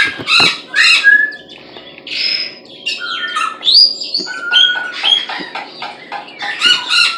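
Birds squawking in repeated short, harsh calls, with a few clear whistled notes in between, one of them rising, around the middle.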